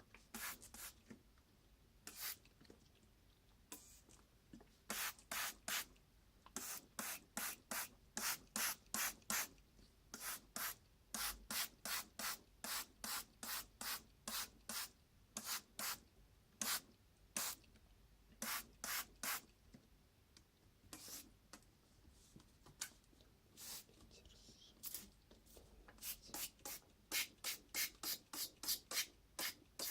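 Short rubbing or scraping strokes by hand on a surface, repeated in runs of about three strokes a second with pauses between the runs.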